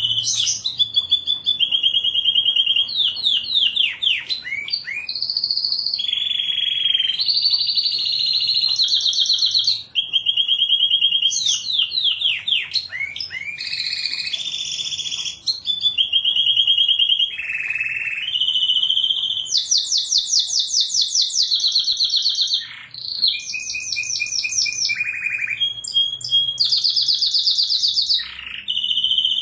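Domestic canary singing without a break: a string of fast trills of rapidly repeated notes, each held for a second or two before switching to a new pitch, with quick falling sweeps between them.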